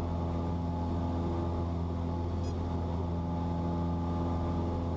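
Cessna 172's piston engine and propeller running steadily at climb power, heard from inside the cabin as an even, unchanging drone.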